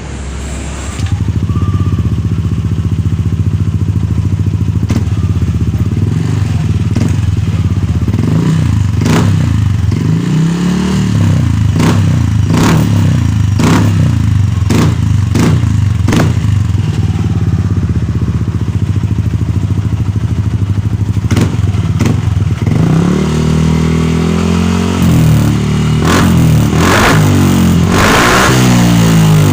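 Yamaha Aerox scooter's single-cylinder engine running through a custom-fitted Honda Vario 150 muffler with its baffle gutted for a deep, solid bass note. It idles with a steady low note, gives a string of short throttle blips, and revs up about a third of the way in and again several times near the end.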